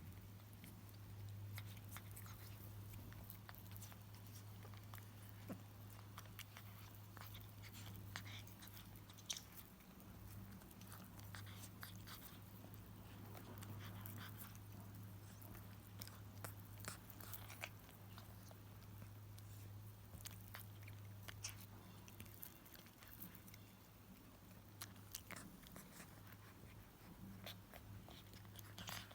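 Cats eating: faint, irregular chewing and crunching clicks throughout, over a steady low hum.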